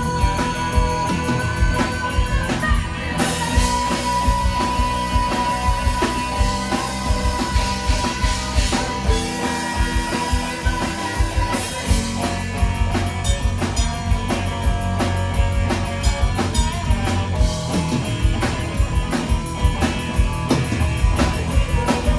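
Live rock band playing an instrumental passage: drum kit hitting steadily under guitar, with long held notes ringing over the beat.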